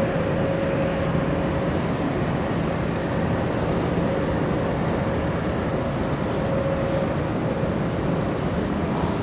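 Jet aircraft engines running, heard as a steady, even noise with a low hum and a thin whine that fades in and out.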